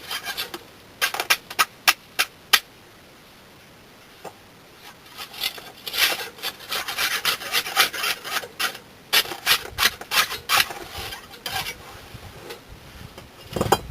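Dry scraping and rubbing as bricks of a kiln door are worked loose and pulled apart. A few sharp scrapes come first, then a pause of about three seconds, then a longer run of scraping with light knocks.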